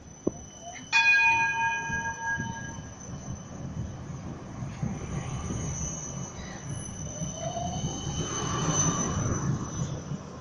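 A tram running along its tracks, with a low rumble and a high, steady wheel squeal that fades out near the end. A single bell-like ding rings out about a second in.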